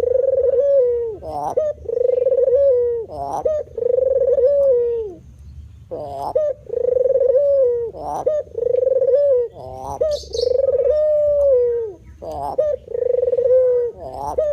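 White spotted dove (terkukur) cooing over and over, one low coo with a short wavering glide about every second, with a break about five seconds in. A brief high chirp about ten seconds in.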